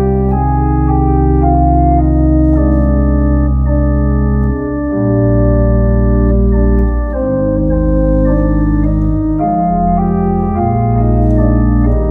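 Organ playing a closing voluntary: loud, sustained chords over a deep bass line, the harmony changing every second or so.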